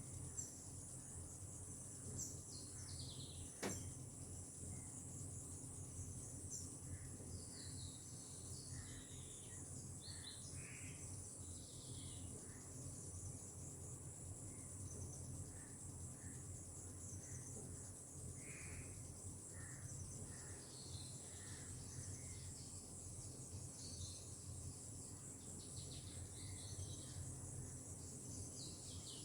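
A steady, high insect chorus of crickets or similar insects, with scattered short bird calls and chirps over it. One sharp click comes a few seconds in.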